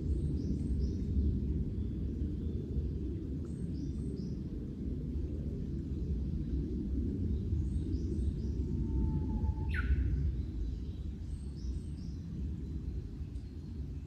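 Songbird chirping faintly in short clusters of high notes that recur about every four seconds, with one rising whistled note about ten seconds in. A steady low rumble, louder than the birds, lies underneath.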